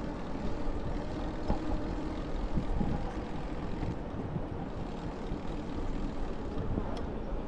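Steady city traffic noise heard from a moving bicycle, with wind buffeting the microphone.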